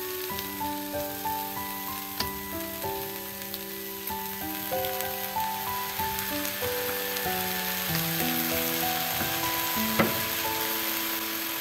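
A stir-fry of green beans sizzling steadily in a wok, under instrumental background music with a slow melody of held notes. A sharp tap sounds near the end.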